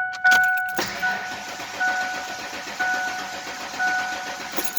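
1996 Ford Explorer Sport's engine cranking on the starter for nearly four seconds without catching, a crank-no-start with no fuel pump heard running, while the dashboard warning chime dings about once a second.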